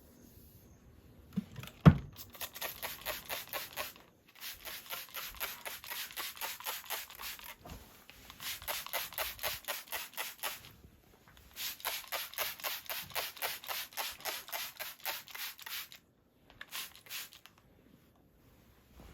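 Rapid back-and-forth brushing strokes on a dog, about six a second, in four bursts of a few seconds each with short pauses between. A single sharp knock comes just before the first burst.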